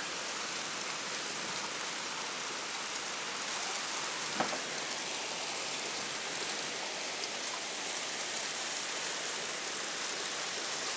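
Heavy rain pouring down, heard from indoors through a rain-covered window as a steady hiss, with a single brief tap about four seconds in.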